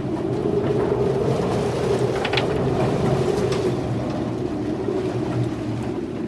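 Steady rumble and wind noise aboard a sailboat in a gale, with a few brief clicks about two and three and a half seconds in.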